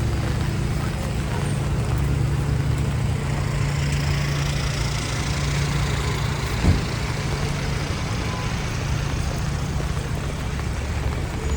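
City street traffic in the rain: a steady low engine rumble, with a rushing hiss that swells and fades in the middle as a vehicle passes on the wet street. A single sharp knock comes a little before seven seconds in.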